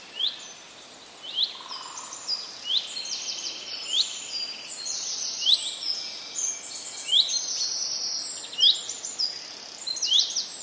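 Several birds chirping and calling together. One short rising note repeats about every second or so, with quicker, higher chirps overlapping it.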